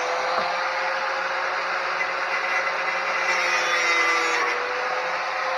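Angle grinder with a cut-off wheel running at speed and cutting through the steel tube of a 1980 Suzuki RM50 frame: a steady motor whine over a loud grinding hiss.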